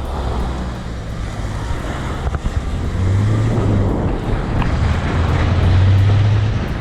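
A car driving, heard from inside: a steady low engine drone with road and tyre noise, swelling louder a few times.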